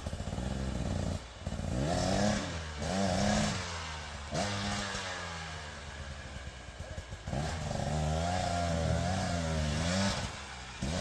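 Enduro dirt bike engine revving up and down in repeated surges as the throttle is worked on a trail, its pitch climbing and dropping several times, with the bike easing off about four seconds in and picking up again about seven seconds in.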